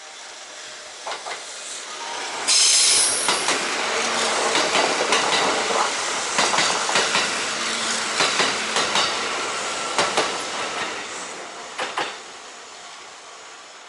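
Kintetsu electric train passing close by: the rolling noise builds, jumps sharply in loudness about two and a half seconds in, then carries a long run of sharp wheel clicks over the rail joints before fading away near the end.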